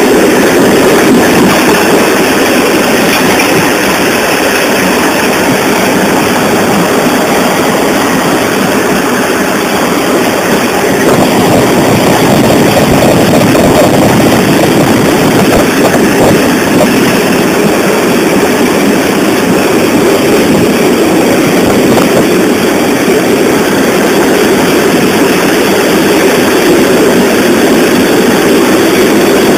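Loud, steady running noise of a TLK passenger train travelling at speed, with no breaks or changes.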